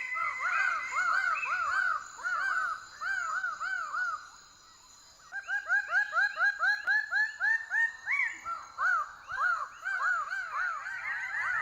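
A bird calling a fast series of ringing, up-and-down notes, three to four a second, with a short pause near the middle, over a faint steady high hum.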